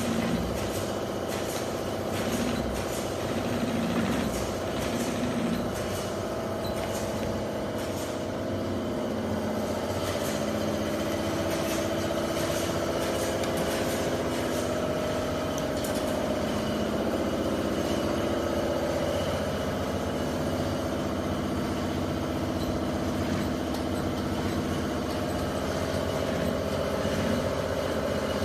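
Automatic mattress tape edge sewing machine running steadily: an even motor hum with several held tones and fine rapid ticking.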